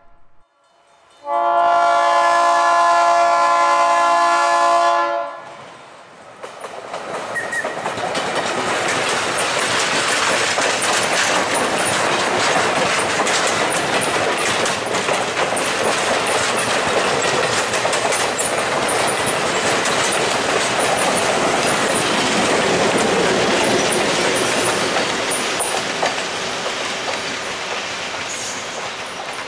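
Diesel locomotive horn sounding one long, steady multi-note blast of about four seconds. A passenger excursion train led by a Wabash F7A diesel then rolls past, its wheels clicking over the rail joints, and fades near the end.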